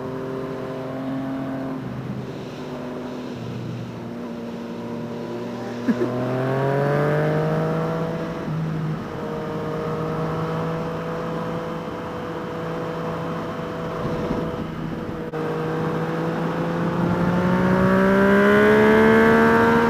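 Engine of a 2014 Yamaha FZ-09, a three-cylinder naked motorcycle, running under way with wind rush. It holds steady speed, pulls up in revs about six seconds in, and pulls up again for a longer stretch near the end.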